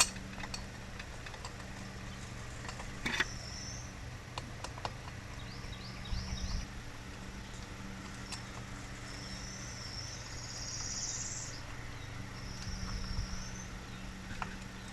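Birds chirping in several short high phrases over a steady low hum, with a few light clicks and taps of small carburetor parts being handled.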